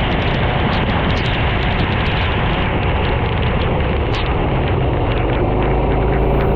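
Onboard sound of a racing kart's engine running, buried in heavy wind-and-rain noise on the microphone, with many short sharp clicks scattered through it.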